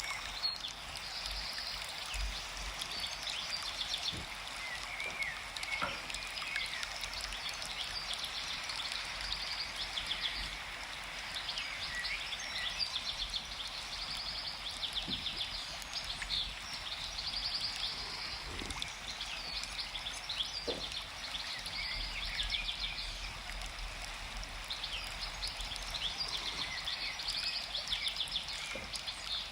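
Forest ambience of many small birds chirping and trilling, with calls overlapping all the way through and a soft rushing hiss underneath.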